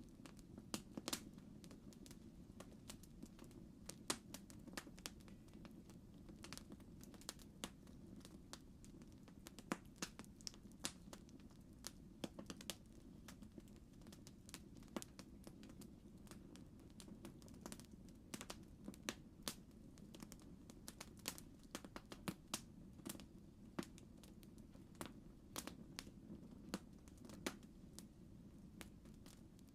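Campfire crackling: irregular sharp snaps, a few louder than the rest, over a low steady rumble.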